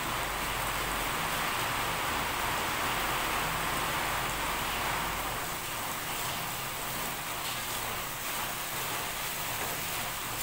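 Heavy rain falling steadily, a constant loud hiss.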